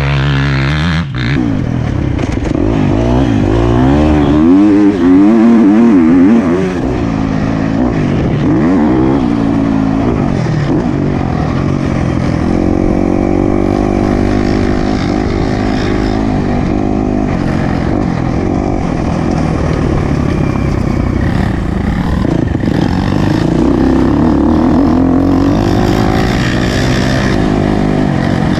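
Motocross bike engine revving up and down again and again as it is ridden around a dirt track, loudest a few seconds in.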